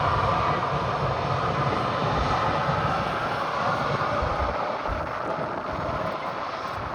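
Jet airliner engines: a steady rush and whine that slowly fades as the plane moves away.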